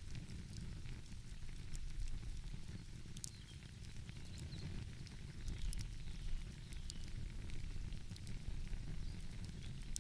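Wood fire crackling, with scattered sharp pops and snaps, over a steady low rumble of ocean and wind.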